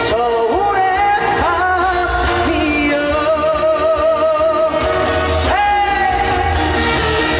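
Trot song sung live by a male singer over a band. The voice scoops up into its notes and holds long ones with a wide vibrato.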